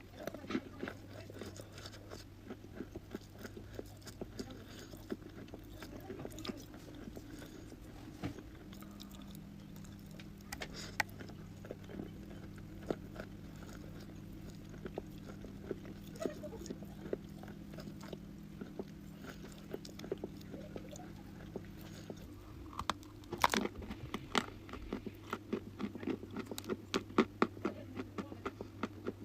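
A person biting and chewing dry, crunchy chalk: many short, sharp crunches, coming thicker and louder near the end. A low steady hum runs underneath.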